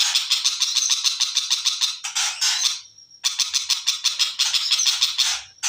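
Long-tailed shrike (cendet) singing a fast, chattering run of rapid repeated notes, about ten a second. It breaks off for a moment about halfway, then resumes.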